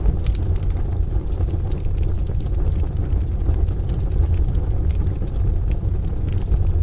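Wood fire crackling in a stove, with scattered sharp pops and snaps, over a steady deep rumble.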